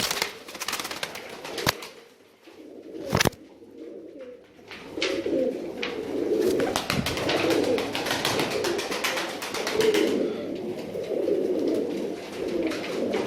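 Many domestic pigeons cooing together in a loft, a continuous warbling murmur that thins out a couple of seconds in and swells again from about five seconds in. A couple of sharp knocks or clicks sound in the quieter stretch.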